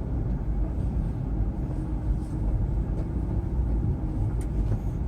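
Low, steady rumble of a Kia Morning (All New Morning TA) city car driving slowly.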